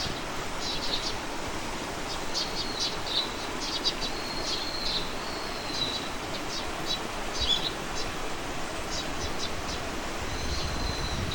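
Small songbirds calling and singing: short high chirps and thin whistled notes, repeated at irregular moments, over a steady background hiss of outdoor ambience.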